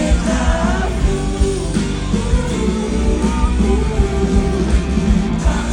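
Live pop-rock band music played loud, with guitar over a heavy bass line, heard from among the audience.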